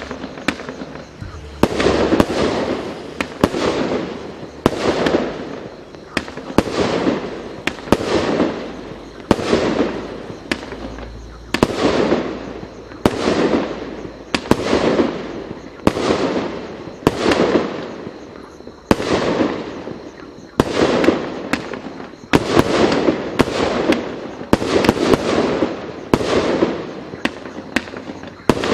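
A 49-shot 1.2-inch fireworks cake firing in a steady string, about one shot every second or so. Each shot is a sharp bang trailing off into a fading hiss and crackle.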